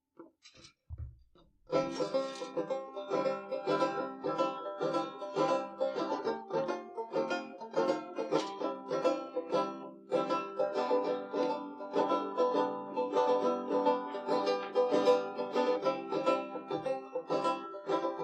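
Live music from a plucked string instrument, picked in a steady rhythm: the instrumental opening of a song. It starts about two seconds in, after a brief soft low thump.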